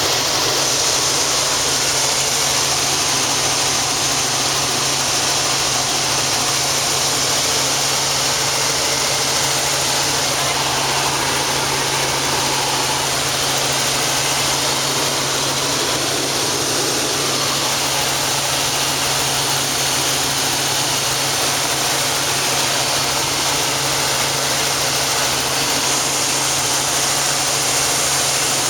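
Helicopter running: a loud, steady din of engine and rotor, an even rush over a constant low hum.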